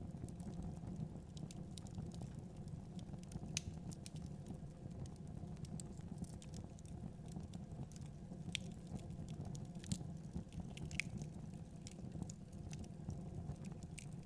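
Wood fire crackling in a fireplace: scattered sharp pops and snaps, a few every second, over a steady low rumble.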